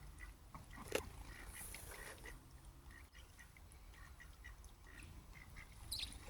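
Ducks giving many short, soft calls in quick, irregular succession, with a sharp click about a second in.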